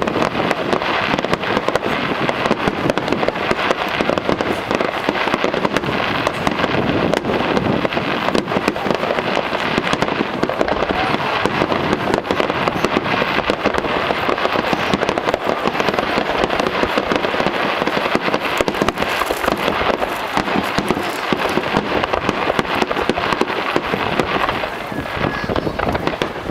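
Aerial fireworks bursting in a dense, unbroken barrage of bangs and crackles, easing slightly near the end.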